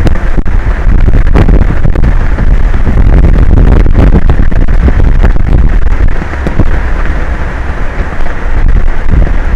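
Strong wind buffeting the microphone, a loud, deep rushing rumble that surges and eases in gusts. It lets up slightly past the middle, then picks up again.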